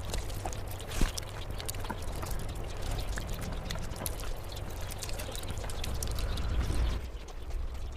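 Wet eating sounds of fish curry and rice: squelching and smacking with many small clicks, and one sharper click about a second in. A low rumble underneath drops away near the end.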